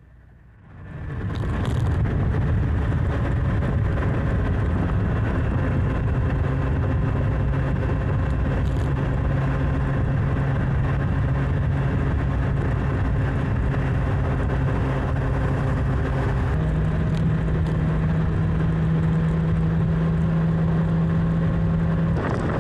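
Motorcycle engine running steadily at cruising speed with road and wind noise. Its note steps up slightly about 16 seconds in.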